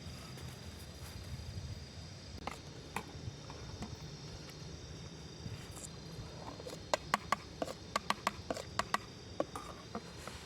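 Steady high-pitched insect chirring, with a quick run of about a dozen sharp clicks or taps in the second half.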